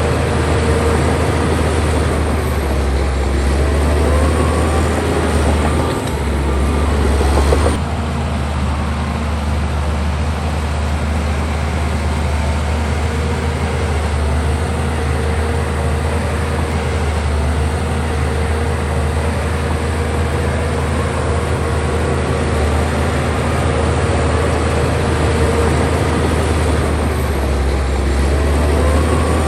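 Bulldozer's diesel engine running steadily with a low drone and heavy mechanical noise, as when a dozer works. The sound shifts abruptly about eight seconds in.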